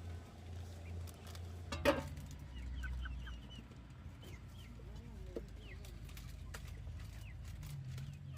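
Chickens clucking, with one louder call about two seconds in and short high chirps scattered throughout, over a steady low hum.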